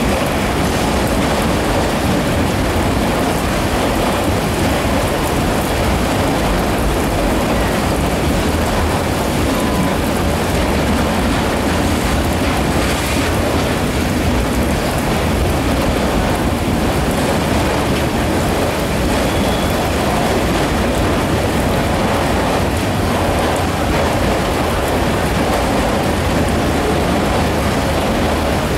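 Freight train of autorack cars rolling steadily past, the wheels rumbling on the rails, mixed with the steady hiss of rain falling on the wet platform.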